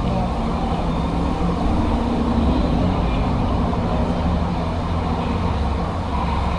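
Steady low rumble of city road traffic, mixed with wind noise on the microphone from riding along on an e-bike.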